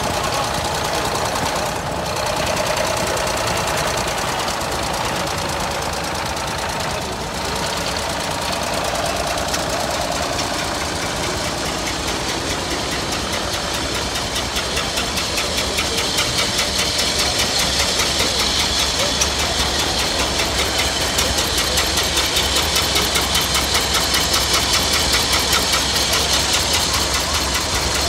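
Veteran-car engines, most about a hundred years old, running at idle with a steady, rapid knocking chug. The pulsing grows louder and more pronounced about halfway through.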